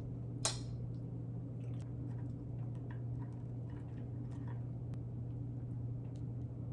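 A steady low hum, with faint scattered clicks and ticks and one sharper click about half a second in.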